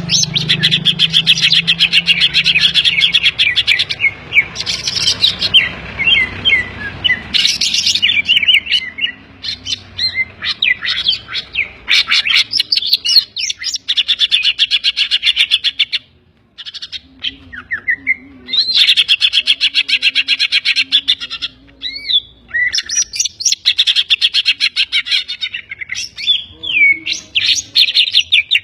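Cucak ijo (green leafbird) singing loudly and almost without pause: rapid chattering trills and slurred whistles, a song stuffed with imitations of other birds such as the kapas tembak and the tengkek (kingfisher). There is a short break about 16 seconds in.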